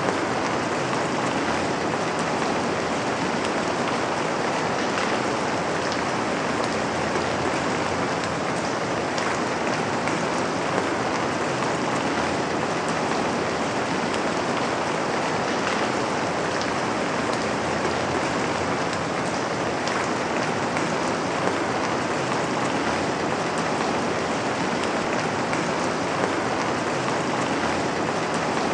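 Steady rain falling, with scattered drops pattering on a window pane.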